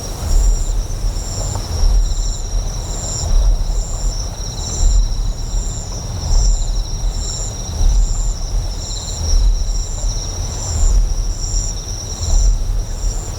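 Layered ambience of a deep, pulsing generator hum that swells about every one and a half seconds, under insects chirping: one in short regular chirps a little under twice a second, others in steady high trills, over a hiss of flowing water.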